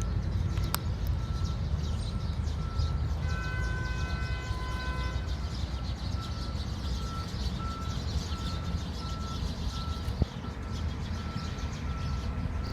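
A vehicle's reversing alarm beeping about twice a second over a steady low engine and traffic rumble. A brief multi-tone horn-like sound is heard a few seconds in, and there is a sharp click near the end.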